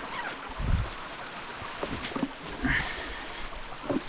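Small mountain stream running in a steady rush of water, with a few dull thumps and a brief rustle close to the microphone.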